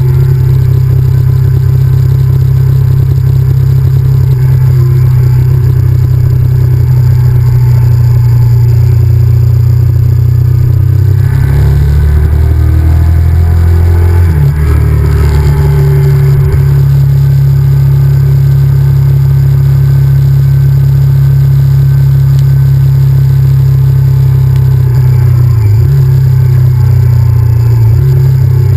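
Honda VTR1000F's V-twin engine running steadily on the move, with a heavy rumble. About halfway through, the engine note drops and then picks up again.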